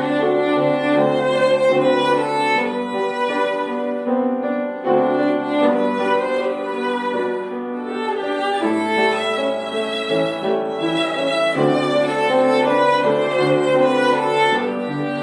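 An ensemble of violins playing a sustained, song-like melody over a low bass line whose notes change every few seconds.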